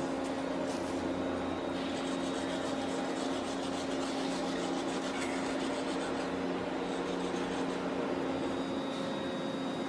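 A machine hums steadily under a rasping, rubbing tool sound that sets in about two seconds in.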